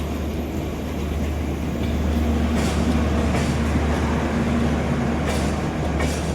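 Passenger express train rolling past on the rails with a steady rumble, its wheels clicking sharply over rail joints every second or so.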